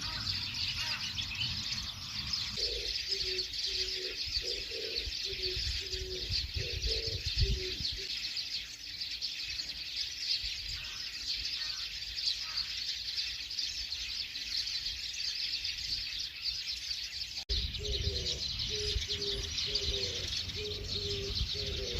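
Many small birds chirping in a continuous chorus, with a dove cooing in runs of short, evenly repeated low notes, once for several seconds and again near the end after a brief cut in the sound.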